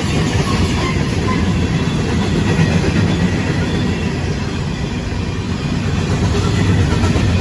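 CSX freight train's cars rolling past on the rails, a steady loud rumble of wheels on track.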